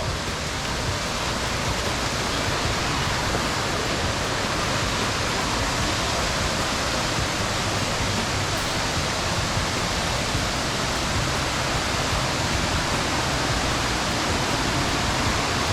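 Helboda Ella, a waterfall about 60 m high, with its water falling in a steady, even rush.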